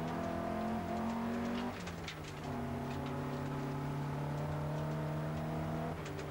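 Opel Ascona A rally car's four-cylinder engine pulling hard at speed, heard from inside the cabin. The note breaks and settles lower about two seconds in, then holds steady until it dips near the end, with scattered sharp ticks over it.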